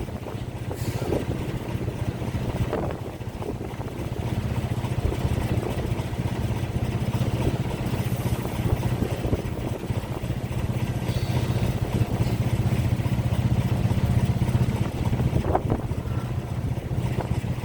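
Heavy engines running with a steady low rumble, with a few faint knocks over it.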